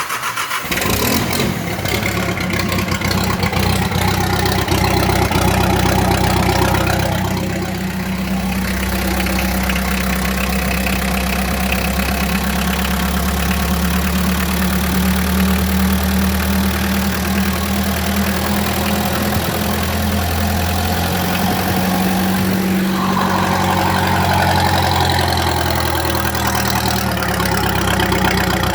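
Mazda Titan's HA diesel engine idling steadily just after starting, its pitch and level shifting slightly a few times.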